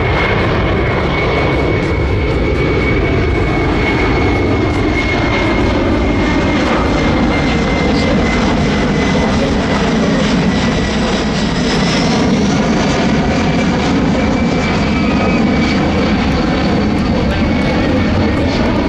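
Boeing C-17 Globemaster III's four turbofan engines running loud and steady in flight, with a high engine whine that drifts slowly lower.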